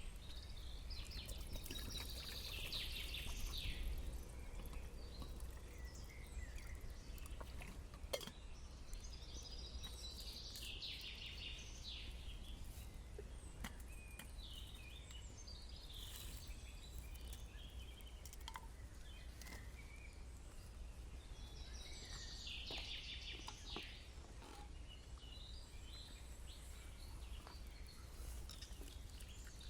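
Forest ambience: a bird sings four times in short chirping phrases over a faint steady background hiss, with a few light clicks.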